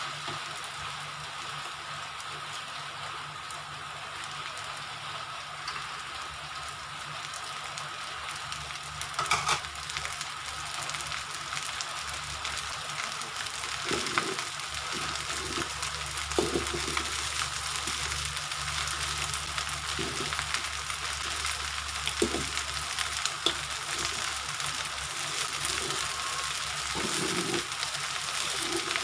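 Rice and eggs sizzling in a hot metal wok, a steady frying hiss. Now and then a metal spatula knocks and scrapes against the pan, more often in the second half.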